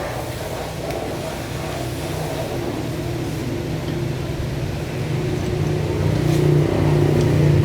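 A motor running with a steady low hum, growing louder over the last couple of seconds.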